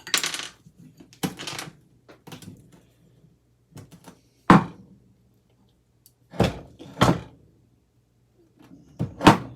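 Metal ceiling fan parts knocking and clunking as the fan is taken apart by hand, with a brief scrape at the start and then separate knocks a second or two apart, the loudest in the second half.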